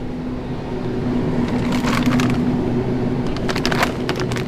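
Plastic packaging crinkling in two short bursts as a bag of hamburger buns is handled, over a steady low electrical hum.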